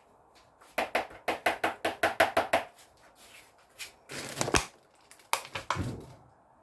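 A quick run of about a dozen sharp clicks, roughly six a second, followed by two heavier knocks.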